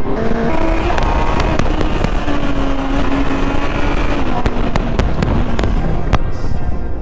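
Honda CB650R's inline-four engine running as the motorcycle is ridden, its pitch stepping and changing with the throttle, with sharp crackling clicks over it.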